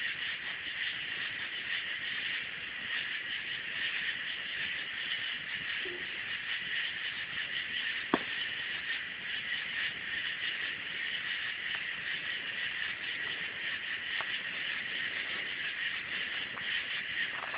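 Campfire crackling, with a few scattered sharp pops, the loudest about eight seconds in, over a steady high hiss.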